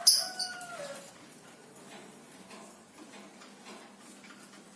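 A bird calling: one loud, sharp call with a falling pitch right at the start, then only faint background hiss with a few small ticks.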